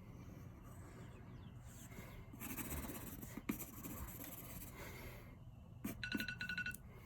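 Quick scribbling strokes on paper with a drawing pen for a few seconds. About a second before the end, a digital timer beeps in a rapid run of short high beeps, signalling that the 10-second drawing time is up.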